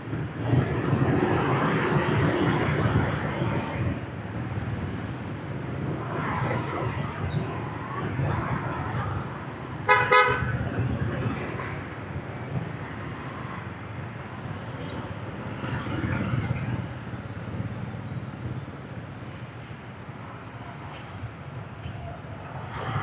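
Street traffic noise from motorbikes with their engines running, and a short horn toot about ten seconds in, the loudest sound.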